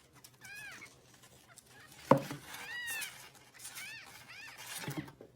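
A small animal calling: about five short, high calls, each rising and falling in pitch. A sharp knock comes about two seconds in.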